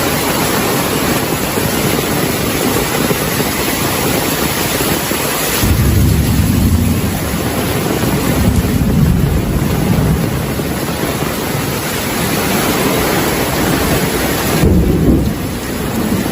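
Heavy rain falling with a steady hiss. Low rolling thunder starts rumbling about a third of the way in, comes in waves, and swells again near the end.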